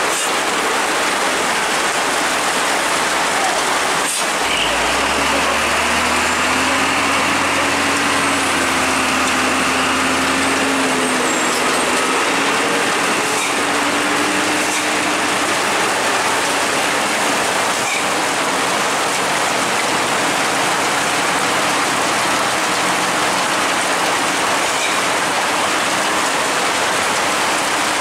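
Steady heavy rain hiss. From about four seconds in, a motor vehicle's engine runs past for several seconds, its pitch rising slightly, then fades back into the rain.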